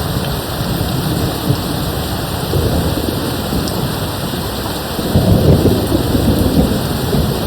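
Steady rain with distant thunder rumbling low beneath it. The rumble swells louder about five seconds in.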